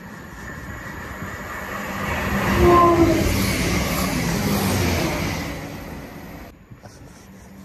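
A passenger train passing through the station at speed: a rushing rumble of wheels and coaches that builds, is loudest about three seconds in with a brief tone at several pitches, then fades. Near the end the sound drops abruptly to a quieter steady background.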